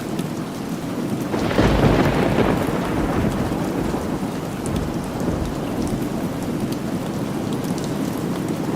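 Steady rain with a thunderclap about a second and a half in that rumbles on and dies away over the next few seconds.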